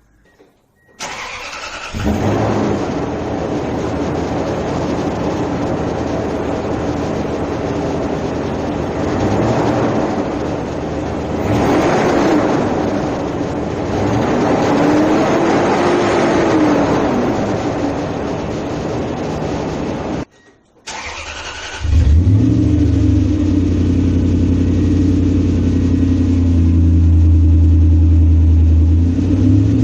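Toyota Tundra's 4.7 L V8 exhaust revved several times, each rev rising and falling. After a break it runs with a loud, deep, steady drone and rises again near the end. This is the exhaust with the muffler removed, sounding much deeper.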